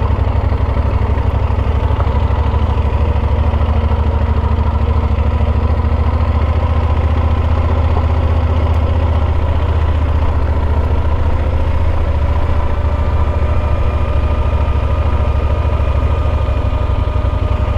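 Motorcycle engine running steadily at low revs, its pitch rising slightly about eleven seconds in and then holding.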